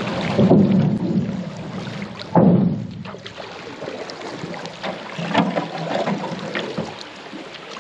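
Paddles working the water around an aluminium canoe on a shallow river: a steady wash of moving water, with two louder splashes about half a second and two and a half seconds in.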